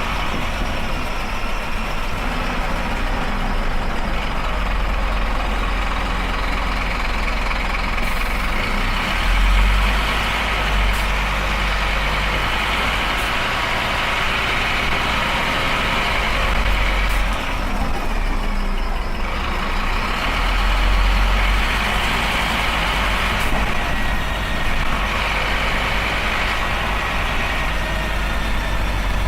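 Diesel engine of a Scania Esteem bus running steadily with a deep rumble. The sound dips and thins briefly about seventeen seconds in, then builds again.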